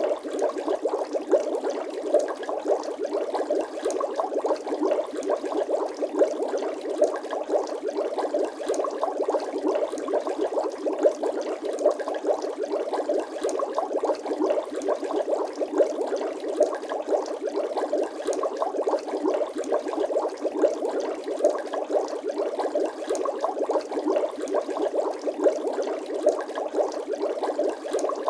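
Bubbling sound effect: a continuous stream of many small bubbles popping and gurgling, with dense little clicks at an even level throughout.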